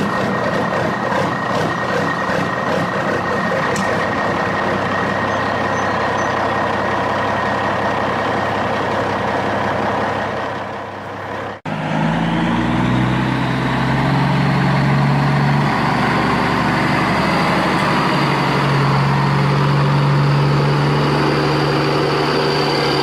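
Heavy vehicle engine running steadily. A little before halfway it cuts off abruptly and a different, deeper engine sound takes over, with a high whine that rises and then holds.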